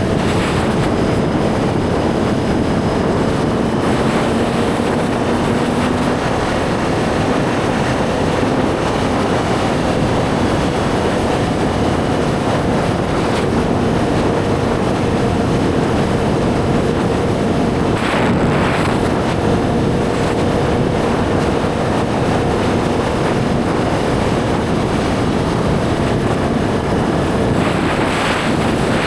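Suzuki GSX-R1000 inline-four engine running at a steady cruise, with heavy wind rush over the microphone and two brief louder rushes of air.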